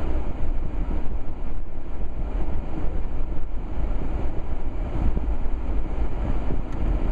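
Steady in-cab rumble and hiss of a four-wheel-drive vehicle driving on a snowy road: engine and tyre noise.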